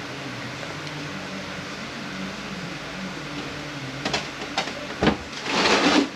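Metal tools and parts being handled on an automatic transmission case during disassembly: a few sharp clinks and knocks, a louder knock, then a short noisy scrape near the end, over a low steady shop hum.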